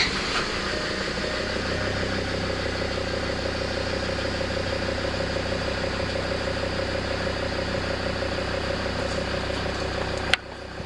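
Land Rover Discovery 2 TD5 five-cylinder turbodiesel starting and settling into a steady idle, right after its high-pressure fuel hose has been replaced and the fuel system primed. A sharp click near the end.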